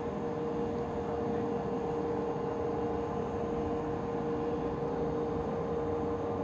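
Passenger train running, heard from inside the carriage: a steady rumble of running with a constant hum over it.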